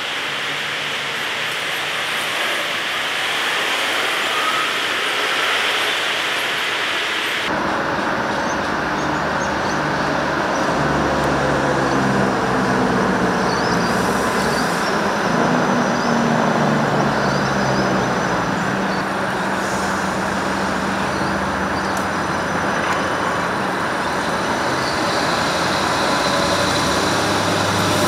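Steady rushing rail noise of approaching trains. About a quarter of the way in it changes abruptly to an Adelaide Metro diesel railcar, 3114, running past the platform: a low engine hum that shifts in pitch over the rumble of wheels on track, slowly getting louder.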